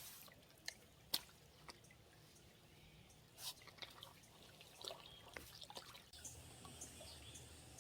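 Near silence with a few faint, sharp clicks scattered irregularly, like small drips or light handling ticks.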